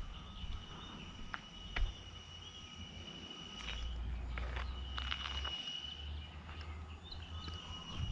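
Scattered footsteps and light knocks over a steady high-pitched tone, with a low rumble in the middle.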